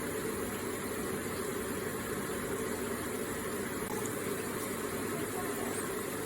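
Electric water feature with water running and splashing steadily in an even, unbroken wash.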